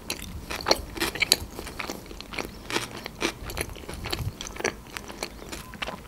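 Close-miked chewing of a sushi roll with closed lips: irregular small crunches and mouth clicks, several a second.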